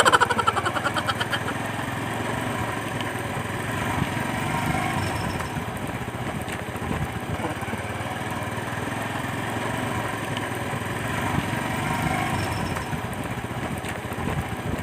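Motorcycle engine running at low speed while riding over a rough dirt road, with a brief fast rattle at the start.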